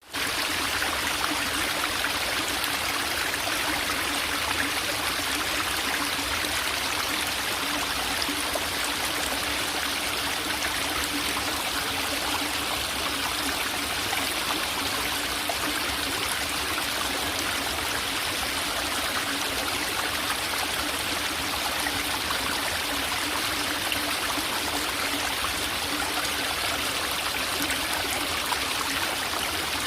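Forest valley stream trickling and gurgling steadily.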